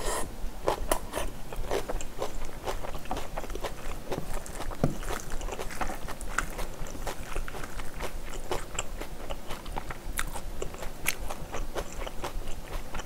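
Close-miked chewing of mouthfuls of spicy stir-fried pork and rice: many small mouth clicks and smacks at an irregular pace. A metal spoon scrapes in the bowl while the next spoonful is scooped.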